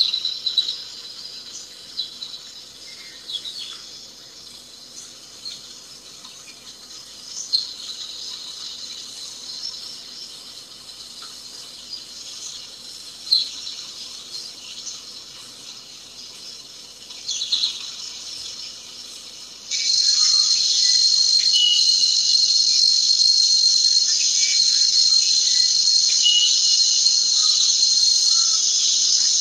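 Steady high-pitched insect chorus with a few louder chirps standing out. About twenty seconds in it jumps suddenly to a much louder, denser chorus that holds steady.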